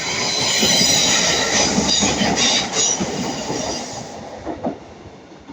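Class 150 Sprinter diesel multiple unit passing close by, the rumble of its wheels on the rails carrying steady high-pitched tones. It is loudest in the first few seconds and fades away about four seconds in.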